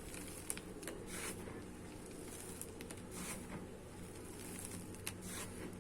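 Dried white mud being crushed on a floor: a handful of short, irregular crunches and crumbles, over a low steady hum.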